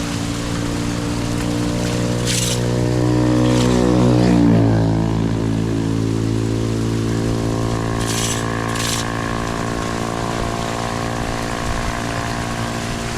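A motor vehicle's engine passing by, its pitch dropping as it goes past about four seconds in, with a few short hisses.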